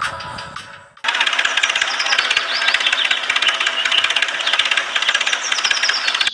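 Fading music for about a second, then a fast, steady mechanical rattle starts abruptly, like a small motor or power tool running.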